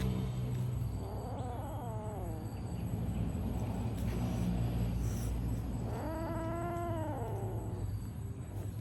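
A cat yowling: two long drawn-out meows that rise and then fall in pitch, one about a second in and a longer, stronger one about six seconds in, over a steady low hum.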